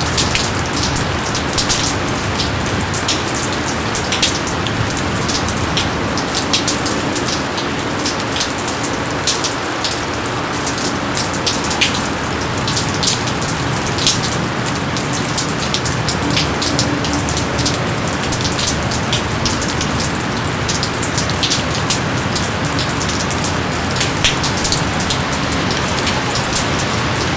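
Steady heavy rain falling on foliage, a constant hiss with many individual drops pattering distinctly over it.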